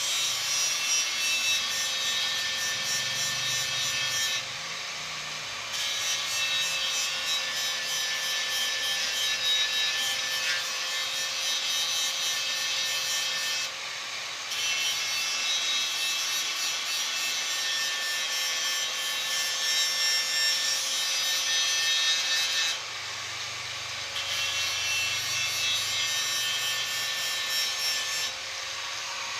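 Sanding or abrading the metal of an old motorcycle fuel tank: a steady rasping rub in long stretches of several seconds, stopping briefly three times, over a faint steady hum.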